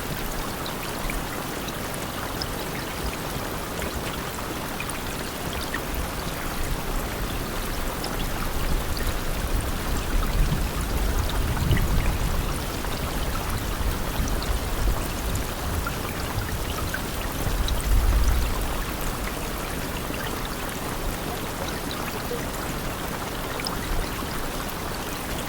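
Steady rain: a dense, even hiss with scattered drop ticks. A low rumble swells under it around the middle and again a little later.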